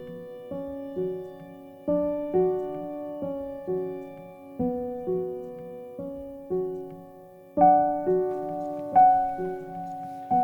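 Soft background piano music: single notes struck in a slow, even rhythm, each ringing and fading, with louder notes about seven and a half seconds in.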